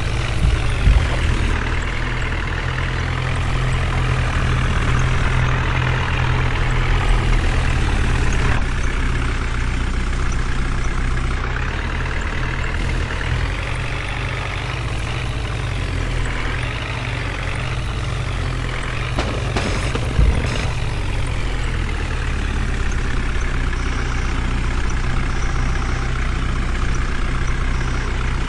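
Heavy diesel engine of a JCB or loaded truck running steadily, its pitch rising and falling a little with the throttle. There is one sharp knock about two-thirds of the way through.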